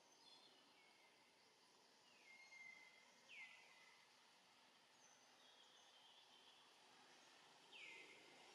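Near silence with faint bird calls: thin, high whistled notes that glide down in pitch, the clearest two about three and eight seconds in.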